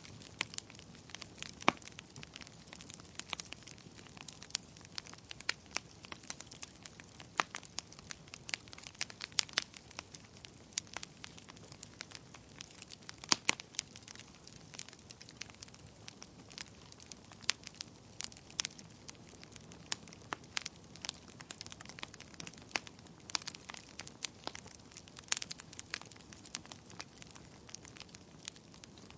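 Wood fire crackling in a fireplace: a low steady hiss under irregular sharp pops and snaps, several a second, some louder ones standing out.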